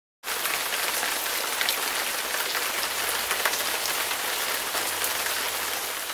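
Water sprayed down like rain onto a person wearing an orange rain poncho, a steady hiss of falling drops that starts abruptly about a quarter second in.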